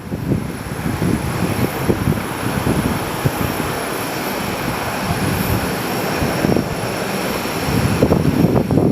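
Aircraft engines running with a steady high whine over a rushing roar, with gusty wind buffeting the microphone.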